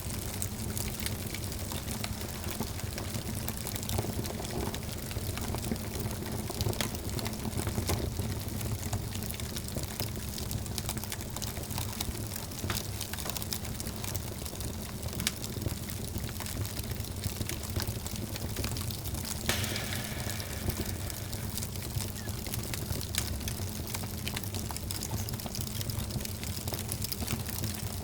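Fire burning in a fireplace: a steady low rush of flames with many small crackles and pops scattered irregularly throughout, one a little sharper about two-thirds of the way in.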